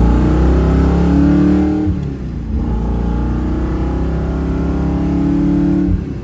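1966 Plymouth Satellite's 426 Hemi V8, on a custom carburetor, accelerating through the gears of its 4-speed manual. The engine's pitch climbs, drops at a gear change about two seconds in, climbs again, then backs off near the end.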